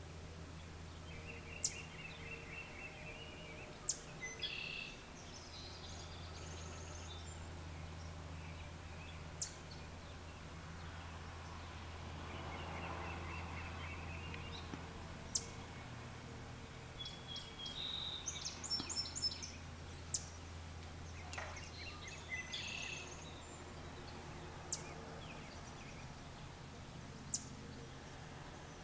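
Small birds calling: single sharp high chips every few seconds and short bursts of twittering, over a steady low hum.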